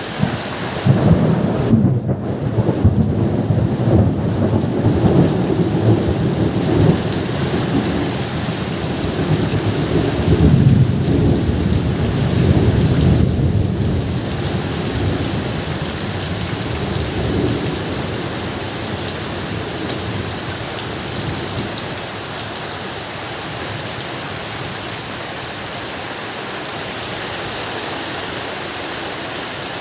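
Steady heavy rain with rolling thunder: a long low rumble starts about a second in, swells again near the middle and dies away, leaving only the even hiss of the rain.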